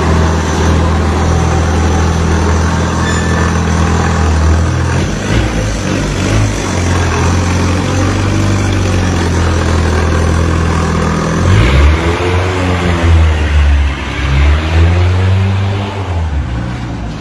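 A loud motorcycle engine runs steadily, then near the end its pitch rises and falls twice as it is revved.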